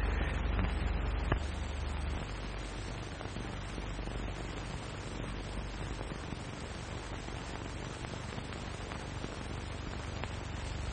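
Surface noise of an early sound film's optical soundtrack: a steady hiss over a low hum, with a single click about a second in, after which the hum drops back.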